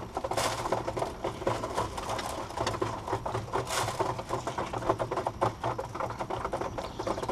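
Roller pigeons moving about in their loft: many light, irregular taps and scuffs of feet and wings, over a steady low hum.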